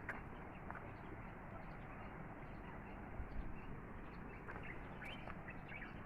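Derna River water flowing with a steady rushing sound, with scattered short bird chirps, several of them close together about five seconds in.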